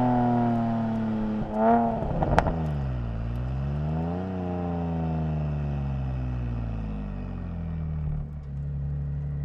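Nissan 370Z's 3.7-litre V6 coming off high revs, with a few sharp cracks about two seconds in. A short throttle blip follows about four seconds in, then the revs sink slowly and settle to a steady idle near the end.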